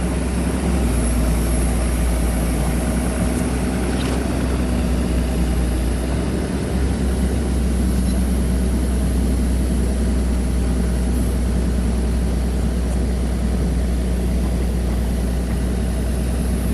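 An engine running steadily with a low rumble and a faint steady hum over it, unchanging throughout.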